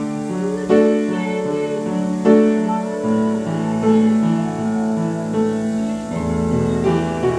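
Piano played slowly: a melody over sustained chords, with a new note or chord struck about every second.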